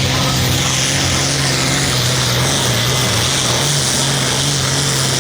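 Modified pro field farm tractor's diesel engine running flat out at a steady, loud pitch while pulling the weight sled.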